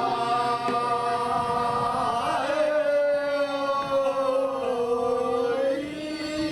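Singing of a Korean traditional farming field song (deulsori), drawn out in long held notes with a wavering, sliding pitch.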